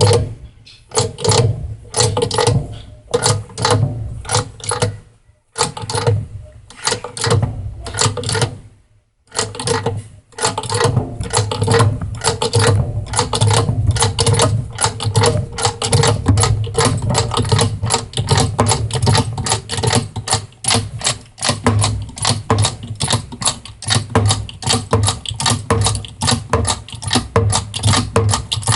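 Rapid runs of clicking and tapping from hand tools working on washing machine parts, several clicks a second, with two short breaks.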